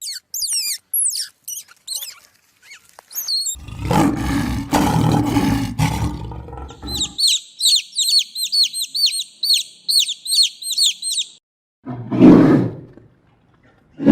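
A sequence of animal calls: quick falling high chirps, then a long, loud, rough call lasting about three seconds, then a run of high chirps about four a second, and a short loud call near the end.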